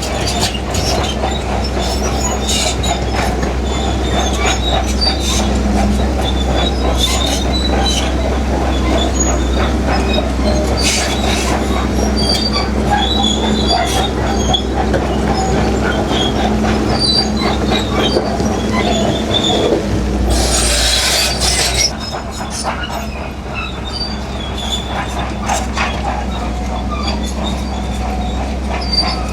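Heavy bulldozer at work: its diesel engine runs steadily under load while steel crawler tracks and rock clank, knock and squeak. About twenty seconds in there is a brief hiss, and after it the engine sound drops a little lower.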